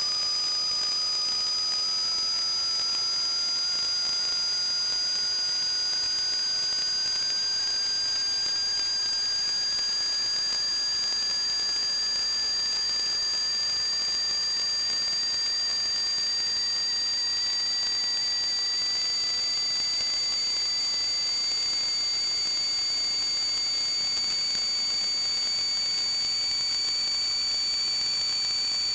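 Steady high-pitched whistling over a hiss: two unchanging high tones, with a lower tone that slowly rises in pitch throughout.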